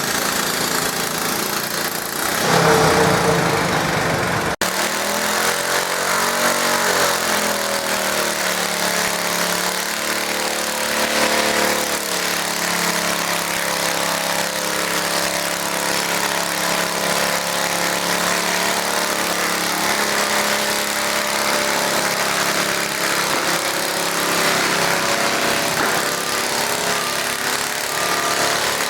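Garden tractor engine running hard as it pulls a weight sled, its pitch bending up and down for a few seconds before it settles into a steady drone. There is a louder stretch a couple of seconds in, and the sound breaks off sharply at about four and a half seconds.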